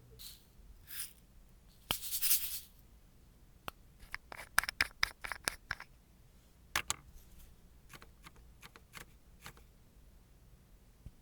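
Light clicks and taps of small objects being handled, with a short scraping rustle about two seconds in and a quick run of clicks a little later.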